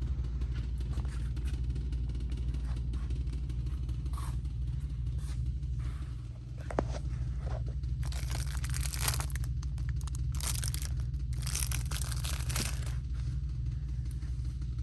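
Steady low hum with a faint even pulsing, and a few short bursts of rustling, like packaging being handled, in the second half.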